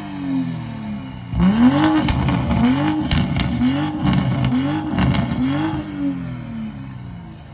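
A car engine revved hard several times in a row: about five quick throttle blips, each climbing in pitch and falling back. A few sharp cracks are mixed in, and the revving tails off near the end.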